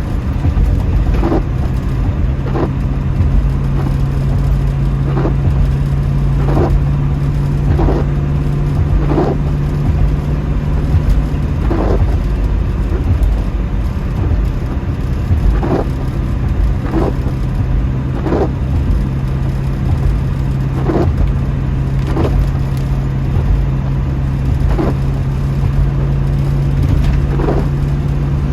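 1972 Ford Mustang Mach 1 cruising in the rain, heard from inside the cabin: a steady low engine and road drone, with the windshield wipers sweeping about every 1.3 seconds.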